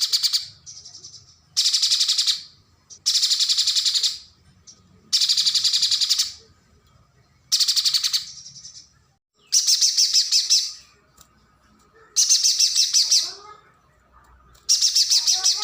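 Pijantung gunung (a spiderhunter) calling in about seven short bursts of rapid, harsh chattering notes, each lasting about a second, with pauses of about a second between them. Fainter, lower chirps come in near the end.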